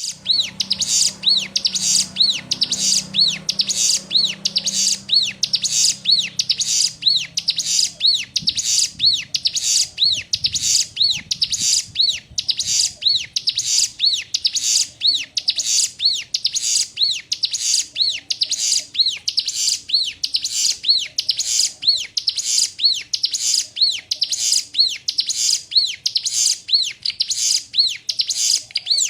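Ciblek gunung (a prinia) singing one long, evenly repeated series of high chirping notes, each note rising and falling in pitch, as a song-tutor (masteran) recording.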